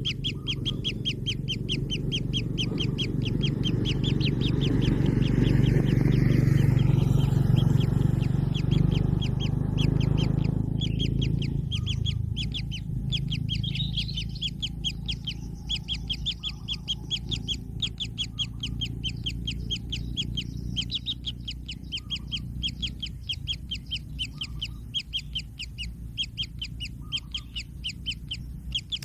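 Kingfisher chicks calling in a rapid series of short, high calls, several a second, without pause. A loud low rumbling noise underlies the first half and fades out about eleven seconds in.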